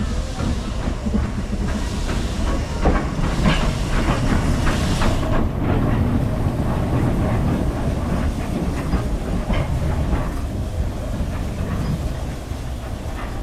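Steam train running along the line: a steady rumble with wheels clicking and knocking over the rail joints, and a hiss of steam.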